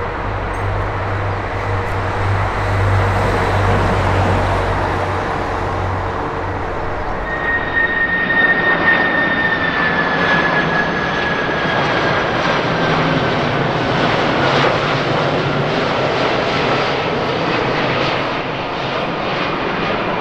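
Jet airliner passing with its engines running, a loud steady roar with a low rumble in the first few seconds. From about seven seconds in, a high engine whine glides slowly downward in pitch.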